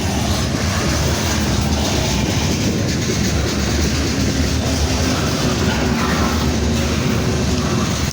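Freight train cars, covered grain hoppers, rolling past: a steady rumble of steel wheels on the rails.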